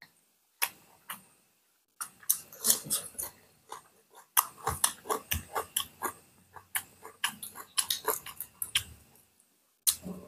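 Close-up eating sounds of people chewing boiled pork and rice by hand, with wet lip-smacking. A few single smacks come first, then a fast, irregular run of them that pauses briefly near the end.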